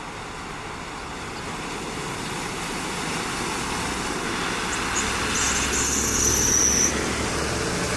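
A vehicle driving past, its noise growing steadily louder as it comes closer. A brief high-pitched whine joins in about five seconds in and lasts for about a second and a half.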